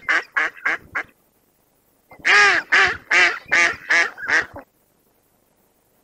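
An animal calling: a quick run of about six short calls, then after a pause six longer, louder calls at about two a second, then it stops.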